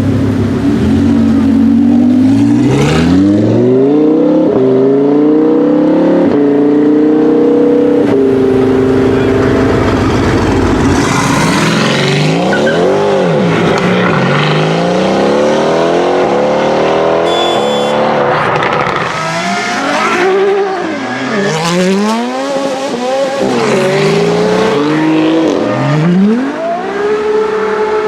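Mercedes-AMG GT R's twin-turbo V8 through a Fi valved exhaust, accelerating hard with its pitch climbing in steps through gear changes. It is then revved up and dropped back several times.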